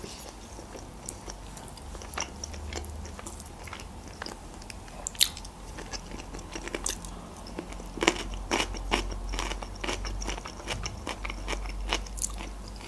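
Close-miked mouth sounds of eating grilled chicken: chewing, with sharp wet clicks and crunches scattered throughout, coming thicker in the second half.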